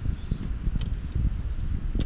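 Wind buffeting the microphone: an uneven low rumble that comes and goes, with a faint click about a second in.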